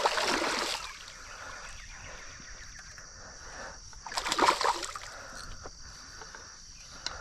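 Water splashing as a hooked channel catfish thrashes at the surface while being landed: a burst at the start and another about four seconds in.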